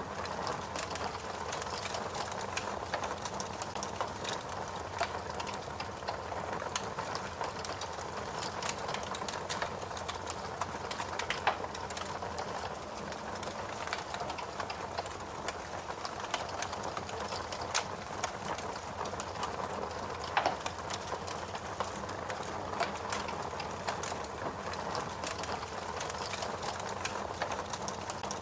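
Wood fire crackling: a steady hiss of the burn with a dense run of small pops and snaps, and two louder pops, about eleven and twenty seconds in.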